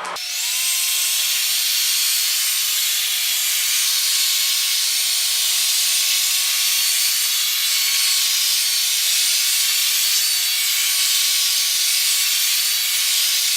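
A heat gun runs steadily with a loud, even hiss of blowing air. A faint whine rises in the first second as its motor spins up, then holds level. It is warming a bead of sealant in a headlight housing.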